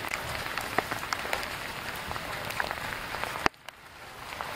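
Steady rain falling on river water and a wooden dock: an even hiss dotted with sharp ticks of single drops. About three and a half seconds in there is a click, after which the rain is quieter and slowly builds back.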